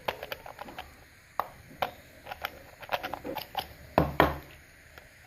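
Irregular small clicks and scratches of hands and a tool working at the LED bulb's circuit board, cleaning it where the burnt LED was removed, with a louder knock about four seconds in.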